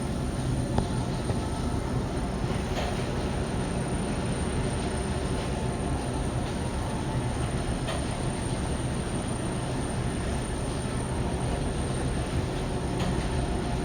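Steady rumble and rush of running boiler-room equipment, with a low hum and a few faint clicks.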